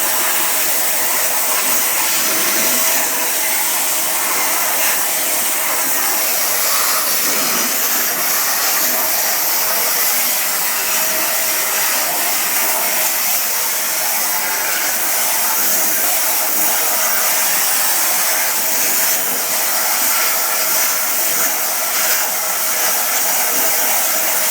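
A 1600-watt vacuum cleaner running steadily: a loud rush of air with a faint steady whine under it.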